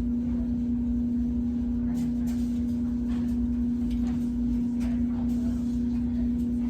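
Steady machine hum with a low rumble beneath it, unchanging throughout.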